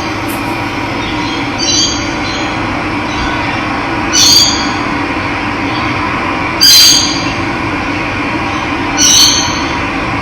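Steady rush of running water with a bird calling four times, a short high call about every two and a half seconds.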